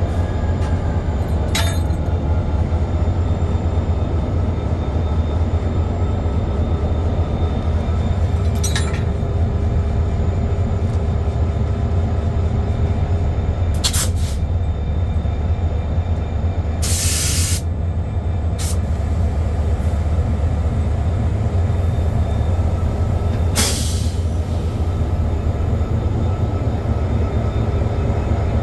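Diesel locomotive hauling passenger cars, its engine running with a steady low rumble. Half a dozen short, sharp noises cut through it, one near the middle lasting about half a second.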